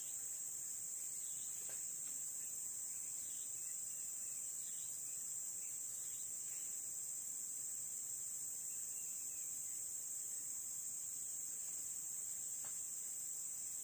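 Steady high-pitched insect chorus, a continuous unbroken drone, with a few faint short calls over it.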